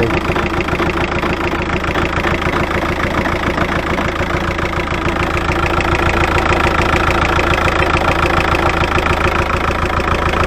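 VW Touran's BKD 2.0 TDI four-cylinder diesel engine idling steadily with a rapid, even ticking. It runs without faltering on a newly fitted fuel filter with a water separator.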